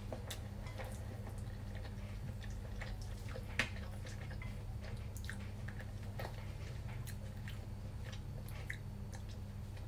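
A person chewing a mouthful of noodles, with soft wet mouth clicks and a sharper click about three and a half seconds in, over a steady low hum.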